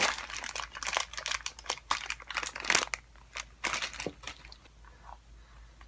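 Plastic being handled: irregular crinkling with a scatter of small clicks and rustles, thinning out over the last couple of seconds.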